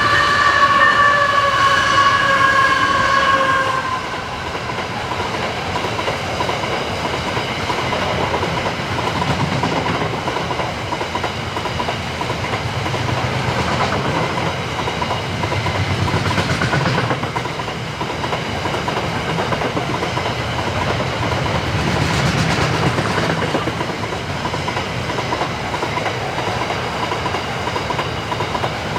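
A diesel locomotive's multi-tone horn sounds a chord that stops about four seconds in. A train then rolls steadily past at close range, with wheels clattering over the rail joints.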